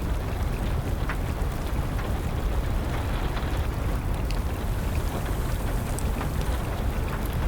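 Steady rain with a wood fire crackling, a few sharp pops every second or so.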